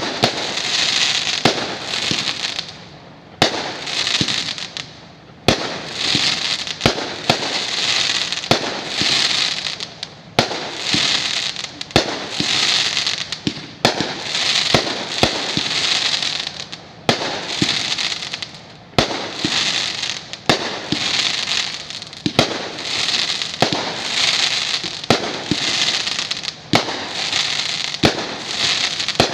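Multi-shot aerial fireworks cake firing in quick succession, about one shot a second. Each sharp bang is followed by about a second of hissing crackle as the stars burst and fall.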